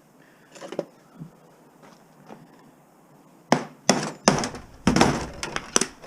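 A small appliance's casing being forced open with a tool: a few faint clicks, then about three and a half seconds in, a quick run of loud sharp cracks and knocks.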